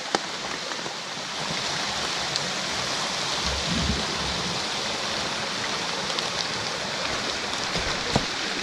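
Heavy rain falling steadily, an even hiss with scattered drop ticks. A brief low rumble comes about three and a half seconds in.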